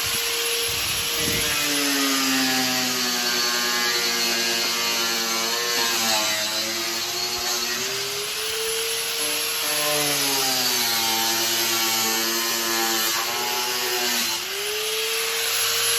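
High-speed power tool cutting, running at a steady high whine that sags lower twice for several seconds as it bites into the material, climbing back to full speed near the end.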